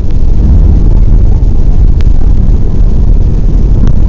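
Loud, steady low rumble in the cabin of an Airbus A320 airliner on its approach or landing at Guayaquil, with a few faint clicks.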